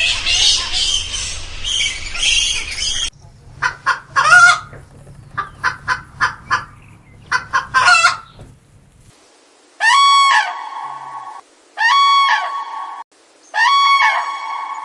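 Several birds calling in turn: first a dense chorus of high chirps, then a run of short, scattered calls, and then three long, even-pitched calls about two seconds apart.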